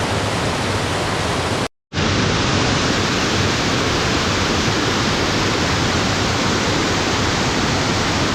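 Steady loud rush of fast-flowing water, such as a rain-swollen stream or cascade. It breaks off completely for a moment about two seconds in, then carries on unchanged.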